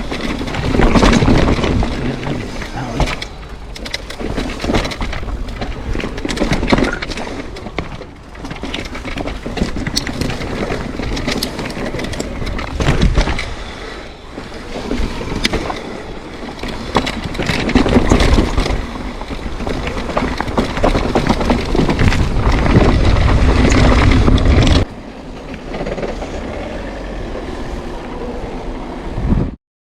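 Mountain bike riding down a rough enduro trail: tyres grinding over dirt and rock, with frequent sharp knocks and rattles from the bike, and heavy rumble that cuts off suddenly about 25 seconds in.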